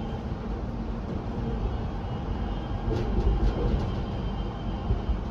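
Suburban electric train running, heard from inside the carriage: a steady low rumble with a few clunks about three seconds in and again near the end.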